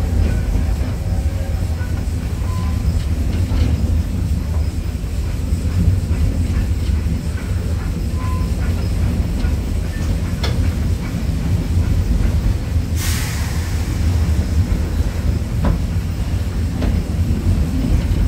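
Open-sided passenger car of a train rolling along the track: a steady low rumble with a few faint clicks, and a brief hiss about thirteen seconds in.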